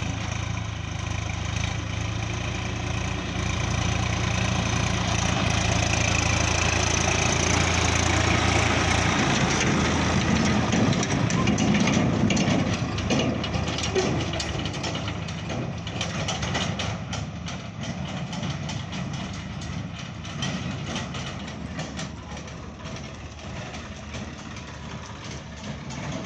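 Tractor diesel engine running, a steady drone for about the first nine seconds, then rougher and noisier with rapid clattering.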